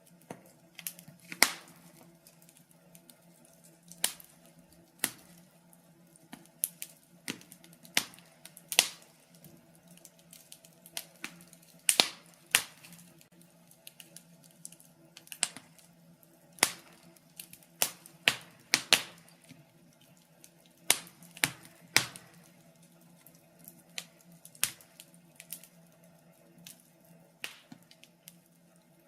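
Wood logs burning in a fireplace, crackling with irregular sharp pops and snaps, a few of them much louder than the rest.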